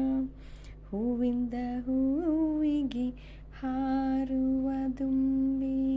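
A woman's voice sustaining a slow, wordless melody in long held notes, continuing a Kannada song. The notes break off briefly twice, about half a second in and around three seconds in.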